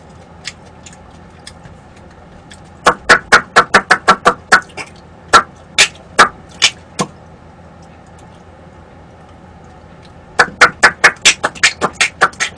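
Two runs of loud, rapid, sharp taps, about five a second: one from about three to seven seconds in, and another starting near the end.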